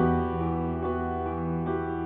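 Soft piano music, sustained chords over a held bass note, with a new chord struck at the start and another near the end.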